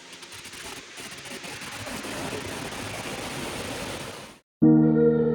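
Steady rushing noise of water, growing louder about a second in, then cutting off suddenly. Music with sustained chords comes in loudly right after, near the end.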